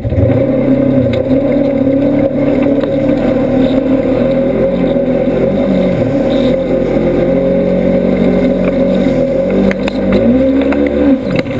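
Polaris RZR side-by-side engine running loud under load, its pitch rising and falling as the throttle is worked.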